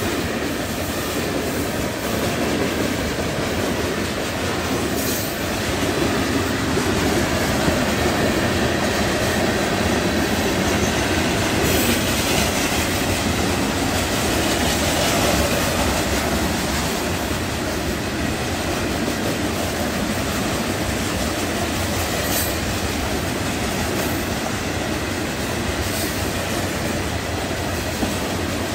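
Florida East Coast freight train's gondola and hopper cars rolling past: a steady rumble and clatter of steel wheels on the rails, with a few brief high-pitched bursts.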